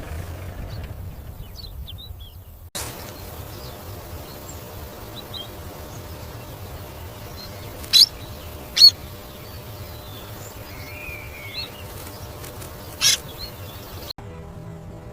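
Small birds chirping over a faint outdoor hiss: scattered brief chirps, with three louder, sharp short calls in the second half.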